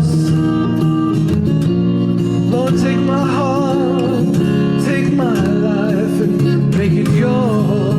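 A country-style song playing, with acoustic guitar over sustained chords and a sung melody with vibrato.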